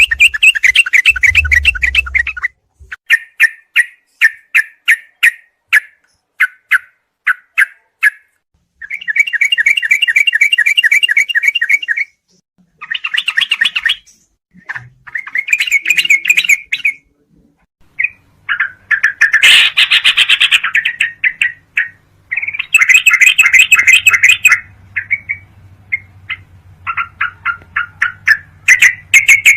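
Yellow-vented bulbul (trucukan) song: repeated bursts of fast, chattering notes with short pauses between phrases. One burst about twenty seconds in is louder and harsher than the rest.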